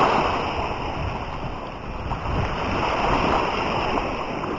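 Sea waves washing in the surf, swelling and falling, with wind buffeting the microphone.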